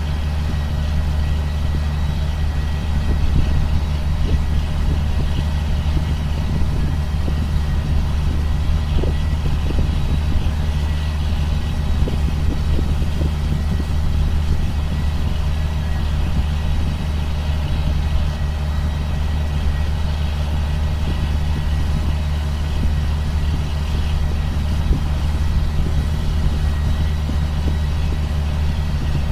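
2005 John Deere sprayer's diesel engine running at a steady speed, a constant low drone with a faint high whine above it.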